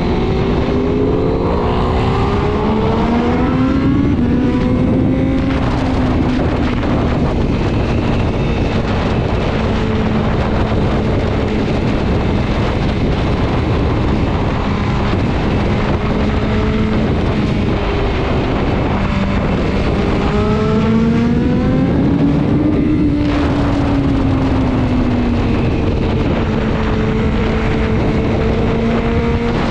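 Sport motorcycle engine running at speed amid heavy wind noise, its note climbing as it accelerates a couple of seconds in and again about twenty seconds in, holding steady between.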